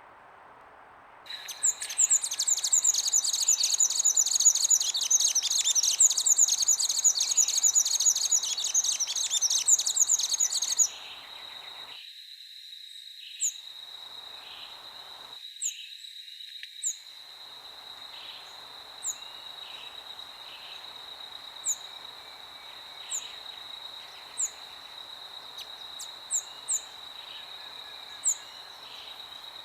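Songbirds singing in a dense chorus of rapid, high chirps that starts suddenly a second in and cuts off abruptly about eleven seconds in. After that, a steady high-pitched insect drone continues, with single short bird chirps every second or two over a soft hiss that drops out briefly twice.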